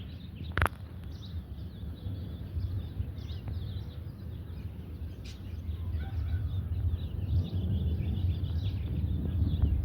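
Distant jet rumble of an approaching Boeing 747-8 freighter's four turbofan engines, growing louder in the second half. Small birds chirp over it throughout, and there is a single sharp click just after the start.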